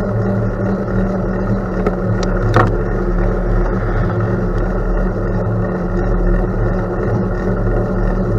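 Steady rumble of riding a bicycle on a gravel road: tyres rolling on gravel and wind on the microphone, with a single sharp click about two and a half seconds in.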